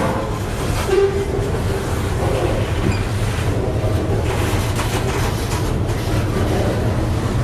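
Freight train rolling past, its wagons' wheels clicking over the rail joints above a steady low rumble.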